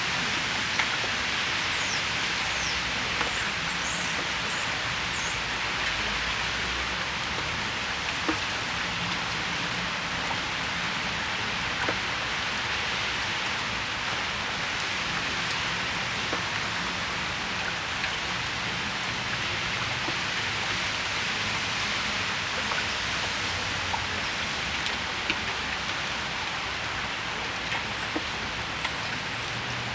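Steady rain falling on the patio, a continuous hiss broken by occasional louder individual drips. A few short, high bird chirps come in the first few seconds.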